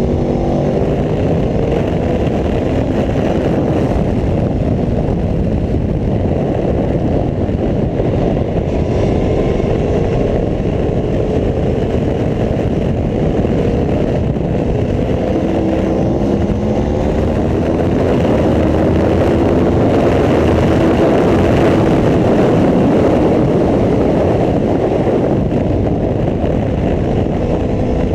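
Aprilia Tuono V4 1100 RR's V4 engine at speed on track, its pitch climbing and dropping again and again as it is run up through the gears, over a steady rush of noise. It gets a little louder about two-thirds of the way through.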